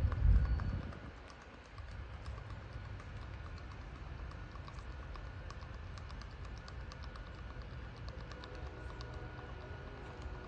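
A brief loud buffet on the microphone in the first second, then the steady low rumble of a receding freight train, with faint irregular clicking over it.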